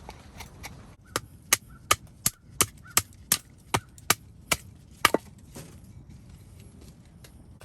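Wood being chopped with a blade to rough out a spoon blank: about eleven quick, sharp strikes, roughly three a second, stopping about five seconds in.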